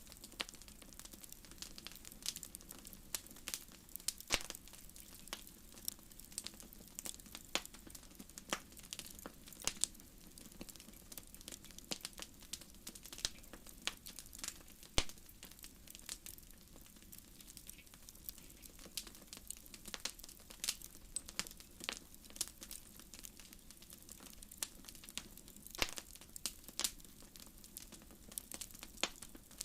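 Wood fire crackling: irregular sharp pops and snaps over a faint steady background, with one louder snap about halfway through.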